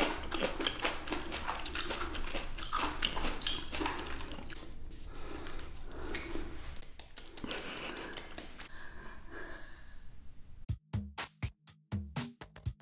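Close-up ASMR mouth sounds of chewing fresh grapes: wet clicks and crunches, thinning out after about eight seconds. About eleven seconds in, electronic music with a steady drum-machine beat starts abruptly.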